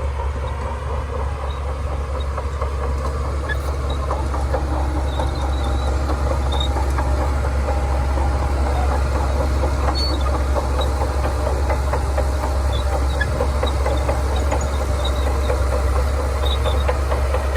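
Shantui crawler bulldozer working: its diesel engine runs with a deep steady rumble, under a dense clatter from the steel tracks and a few faint high squeaks. It grows slightly louder over the first few seconds.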